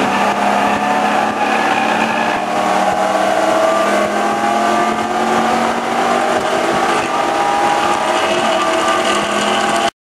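Ford Mustang FR500S race car's V8 engine at high revs, heard from inside the cabin under hard acceleration, its pitch climbing in repeated rises through the gears. It stops abruptly near the end.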